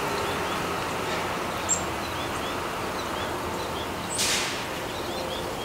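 Outdoor ambience: a steady background hum with soft, small bird chirps repeating about twice a second. A single sharp high chirp comes just before two seconds in, and a brief rushing whoosh about four seconds in.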